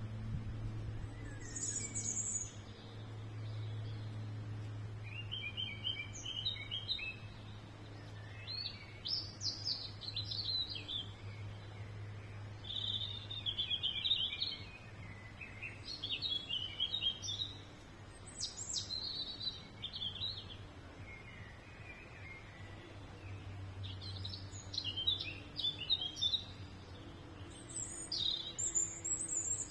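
Songbirds chirping and singing in short, quick phrases that recur every second or two, over a steady low hum.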